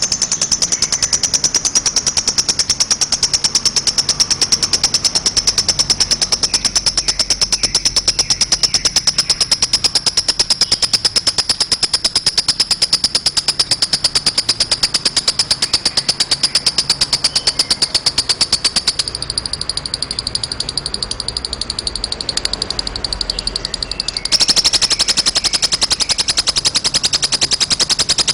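Lovebird's long 'ngekek' song: a continuous, very rapid, high-pitched chattering trill whose pitch sinks slowly. It drops in level for a few seconds about two-thirds of the way through, then comes back louder.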